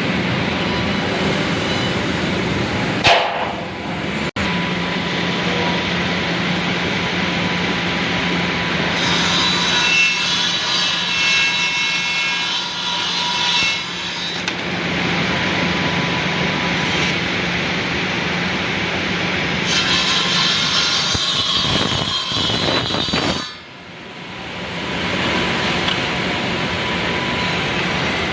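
Taiwanese RH-826ART automatic double-end cutting and milling machine running with a steady hum, its saw blades and milling cutters twice biting into wood workpieces for a few seconds each, about nine seconds in and again about twenty seconds in, with a high whine during each cut.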